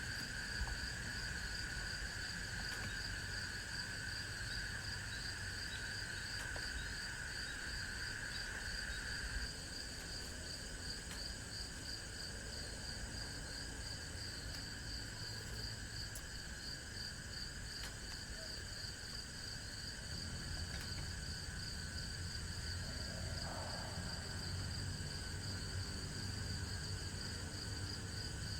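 Insects trilling steadily in several overlapping pitches, the highest one a fast pulsing trill. One lower-pitched trill drops away about a third of the way through, over a low steady background rumble.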